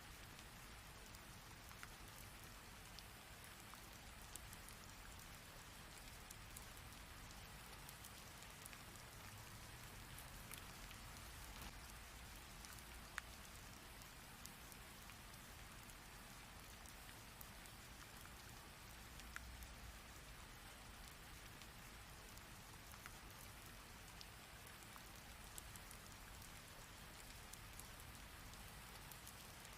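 Steady heavy rain: an even wash of falling water with individual drops clicking sharply here and there, one louder click about 13 seconds in.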